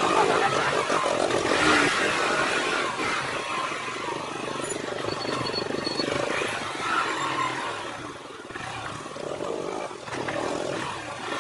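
Motorcycle running on the move, under a broad rushing noise that rises and falls, dipping a little about eight seconds in.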